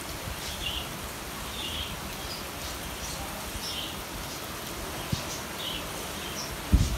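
Steady hiss of heavy rain falling, with short high bird chirps repeating about once a second over it. A brief low thump comes near the end.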